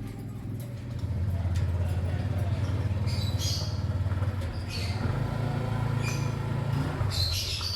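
Lovebirds chirping in short high bursts, about four times, over the steady low hum of an engine that starts about a second in.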